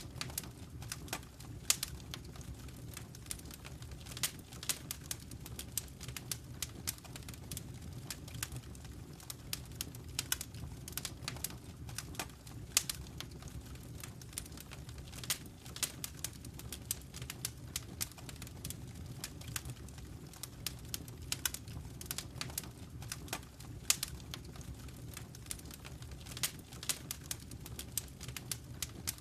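Wood fire crackling in a fireplace: irregular sharp pops and snaps, several a second, with a few louder snaps, over a low steady rumble of the burning fire.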